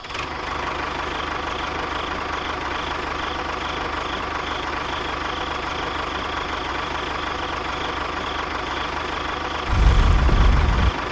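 Miniature home-made toy tractor's small motor running steadily as it drives along, with a faint steady whine. Near the end a louder low rumble comes in for about a second, then stops.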